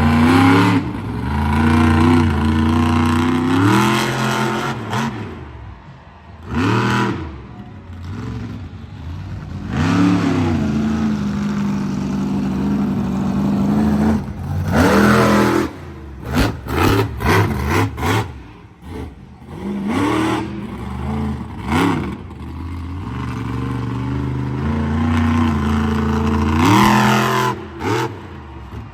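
Monster truck engine revving hard again and again, its pitch climbing and dropping, with a quick run of short throttle blips about halfway through.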